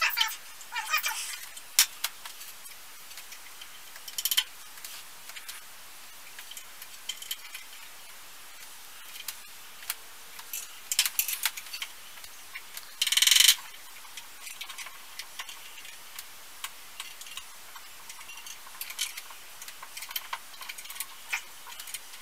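Scattered light clicks and taps of metal parts as the upper blade guide of an unpowered benchtop band saw is adjusted by hand, with one louder, half-second burst of noise about thirteen seconds in.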